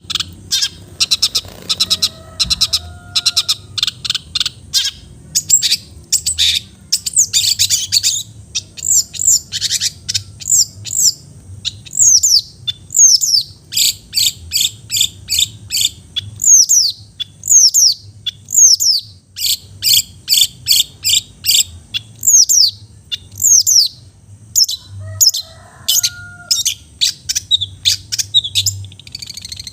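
Long-tailed shrike (cendet) singing: a long run of sharp, high, downward-sliding notes repeated one to two a second. Fainter, lower whistles sound briefly near the start and again near the end.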